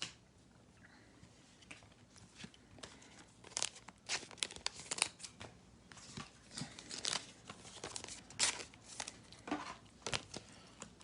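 Faint crinkling and rustling of trading cards and their plastic wrapping being handled, in short scattered bursts from about two seconds in.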